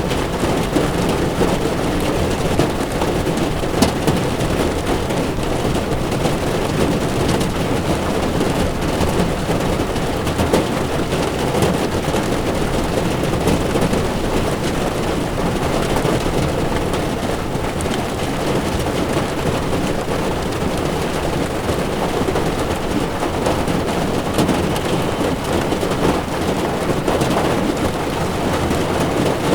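Heavy rain falling steadily on a car's windshield, with the tyres running on a wet road.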